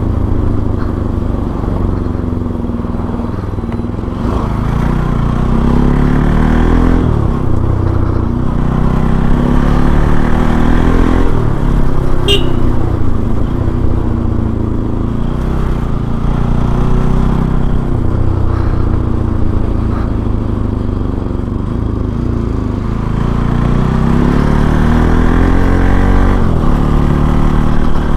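Bajaj Pulsar NS200's single-cylinder engine under way, its pitch climbing and dropping several times as it accelerates and changes gear. There is one sharp click about twelve seconds in.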